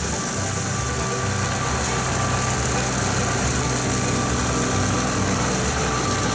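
Kubota L3901 diesel tractor running steadily under load, driving a Land Pride RCR1860 rotary cutter (bush hog) through the grass.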